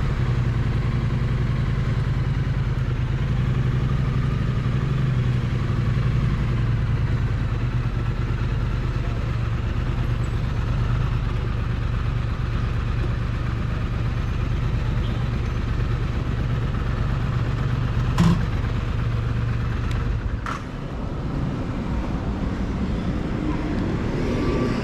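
Triumph Bonneville T100's parallel-twin engine and exhaust running steadily, heard close to the exhaust with a deep steady note. Two sharp clicks come near the end, and after them the engine note drops lower.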